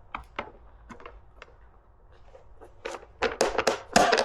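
Hand tools and metal parts being handled during disassembly of an electric dirt bike: scattered light clicks and taps, then a loud burst of clattering knocks in the last second and a half.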